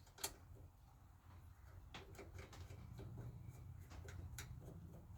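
Faint, scattered light clicks and clinks of small parts and tools being handled, over a low hum that gets slightly louder about halfway through.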